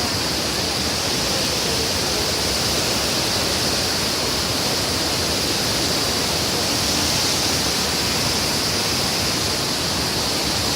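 Shifen Waterfall's falling water making a steady, even rush that does not change.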